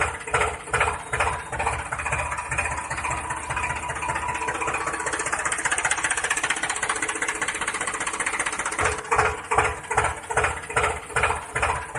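Small motor of a homemade mini model tractor running, pulsing about three times a second at first, then steadier, then pulsing again near the end.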